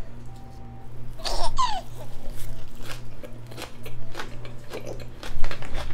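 Close-miked chewing of grilled pork intestine wrapped in a perilla leaf: a run of short, wet, crunching mouth clicks. About a second in come two quick falling whistle-like sweeps.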